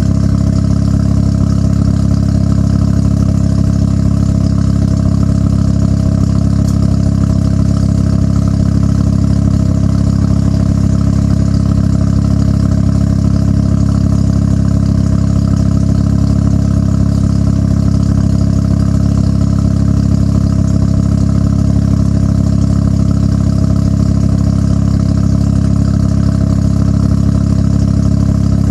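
1993 Mazda RX-7's twin-turbo 13B rotary engine idling steadily through an HKS Hi-Power aftermarket exhaust, with a deep, even exhaust note and no revving.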